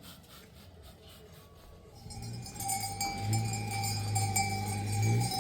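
Livestock bells on a flock of sheep and goats ringing steadily, starting about two seconds in, over a low steady hum.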